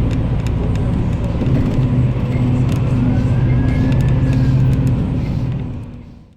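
A motor vehicle running with a steady low engine drone, fading out in the last second.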